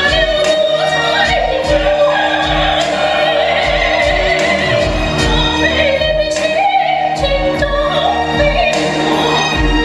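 A woman singing a solo with vibrato, over a musical accompaniment with a steady low beat.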